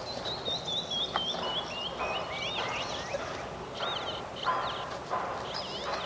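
Wild birds calling: a run of about a dozen short whistled notes stepping down in pitch over the first two seconds or so, then several short arched chirps.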